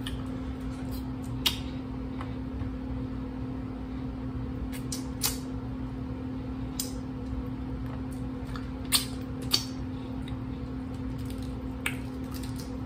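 Boiled shrimp being peeled by hand and eaten close to the microphone: several short, sharp clicks of shell and mouth sounds a second or more apart, over a steady low hum.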